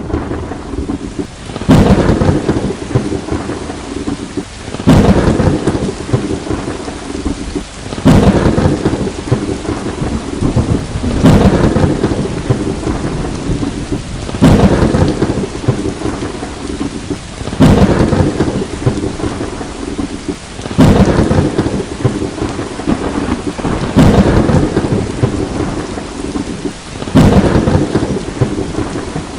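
Steady heavy rain with thunder claps at an even pace, about every three seconds: each a sudden crack followed by rumbling that fades under the rain.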